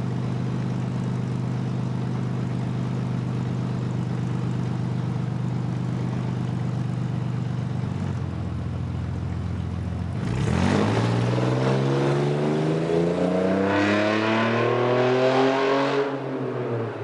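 Jeep 3.7-litre V6 exhaust through new mid mufflers and a glass pack: the engine runs steadily for about eight seconds, then accelerates hard from about ten seconds in, louder, the revs climbing before the sound falls away as the Jeep passes by near the end.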